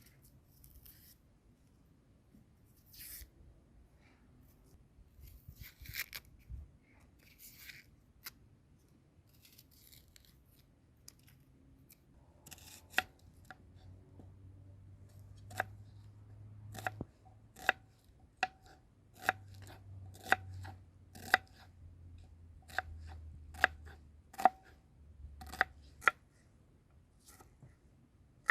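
Knife chopping food on a cutting board: slow, even cuts about one every second, starting about halfway through, after some softer scraping and rustling of handling and cutting.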